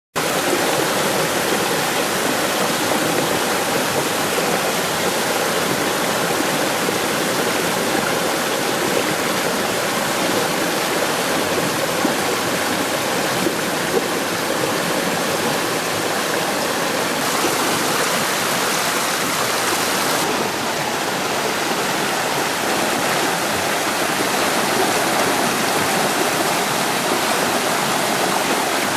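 Waterfall: water falling and rushing with a loud, steady, even roar.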